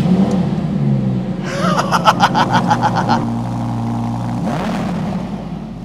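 Audi R8 GT's 5.2-litre naturally aspirated V10 firing up loudly and settling into a steady idle, with a rapid run of short pulses in the first half and a brief rev that rises and falls near the end.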